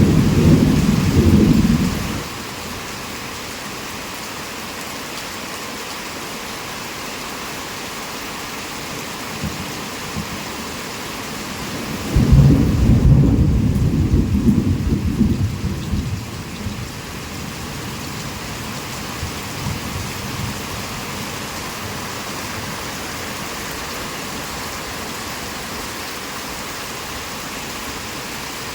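Heavy rain falling steadily with thunder: a rumble fades out about two seconds in, and a second, louder roll of thunder comes in about twelve seconds in and dies away over some five seconds.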